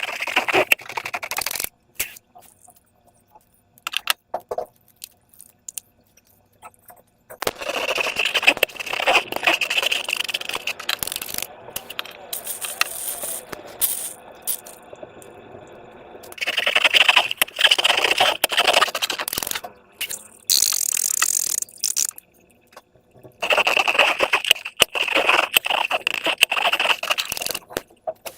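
Slime being squished and stretched by hand, making sticky crackling and squelching in four bursts of a few seconds each, with quieter pauses between.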